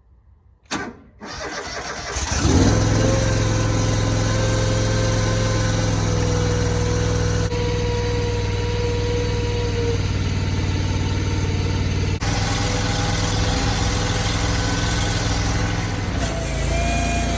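Firewood processor's engine cranking over and catching about two seconds in, then running steadily. A click comes just before the cranking.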